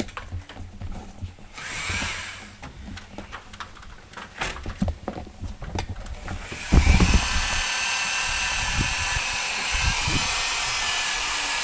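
Scattered knocks and clicks. Then, about two-thirds of the way in, an electric drill starts with a thump and runs steadily.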